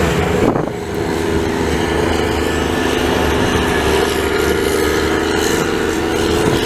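Diesel engine of a heavy snow-clearing vehicle running steadily close by, a constant engine hum with a low throb.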